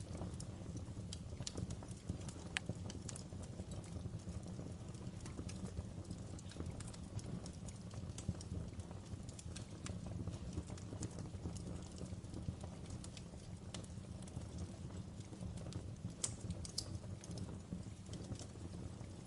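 Log fire in a fireplace crackling: a steady low rumble of flames with irregular sharp pops and snaps from the burning wood, a few louder pops about two-thirds of the way through.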